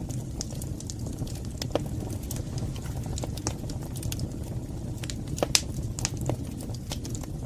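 Wood fire in a fireplace crackling: irregular sharp pops and snaps over a steady low rumble of burning flames, with one louder pop about five and a half seconds in.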